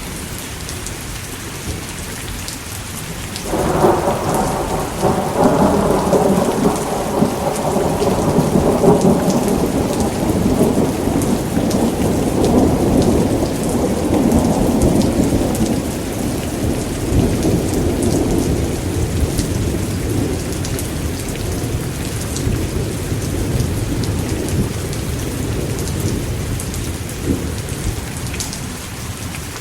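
Steady heavy rain with a long rumble of thunder that breaks in suddenly about three and a half seconds in, swells, and dies away slowly over some twenty seconds.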